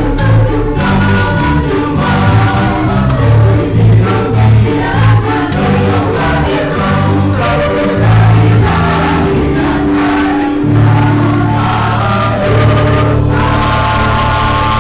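Church choir singing a Christmas hymn in parts with instrumental accompaniment and a steady bass line, ending on long held chords.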